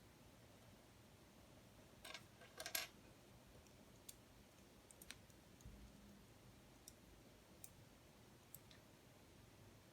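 Faint clicks of plastic LEGO Technic pieces being handled and pressed together. A quick cluster of louder clicks comes about two seconds in, then single small clicks about once a second, with a soft low thud near the six-second mark.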